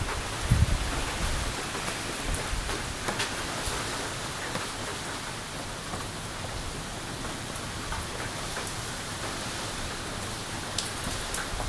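Steady rain and wind from an approaching typhoon, with scattered drops ticking close by. A gust buffets the phone's microphone about half a second in.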